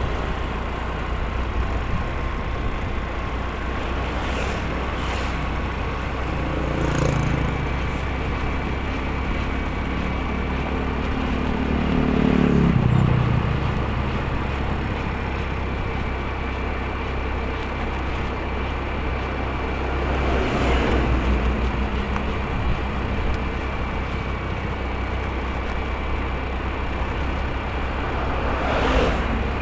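Steady road and wind rumble of a motorcycle ride in traffic. An engine's pitch falls between about 7 and 13 seconds in, and other vehicles swell past about 21 and 29 seconds in.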